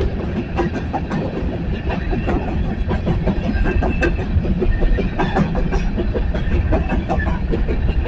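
Coal train's freight cars rolling past, steel wheels clicking rapidly over the rail joints over a steady low rumble.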